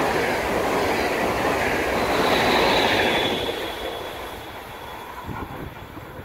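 Double-deck electric passenger train passing at speed: loud rumble and clatter of wheels on the rails, with a thin high squeal from about two seconds in. The sound fades away after about three seconds as the last coaches go by.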